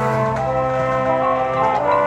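Brass ensemble of trumpets and trombones playing sustained chords, moving to new chords a couple of times.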